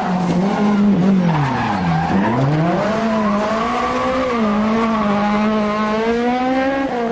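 Rally car engine at high revs. Its pitch drops sharply about two seconds in, then climbs back and holds high and fairly steady.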